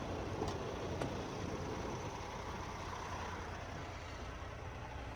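Semi-truck diesel engine idling, a steady low rumble, with two faint clicks about half a second and a second in.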